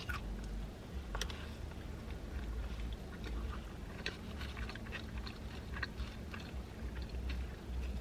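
A person chewing a mouthful of burrito: soft, wet mouth sounds with scattered small clicks, over a low steady hum.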